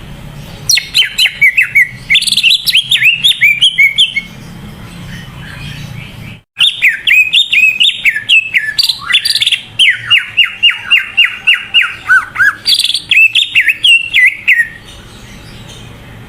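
Cucak ijo (green leafbird) singing vigorously, a rapid string of sharp whistled, chirping notes that swoop up and down in pitch. It sings in two long bursts with a short break about six seconds in, and near the end of the second burst there is a run of level notes and quick falling slurs.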